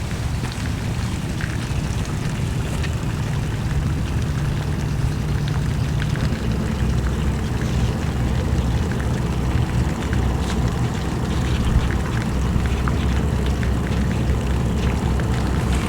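Engines running with a steady low drone and some noise over it.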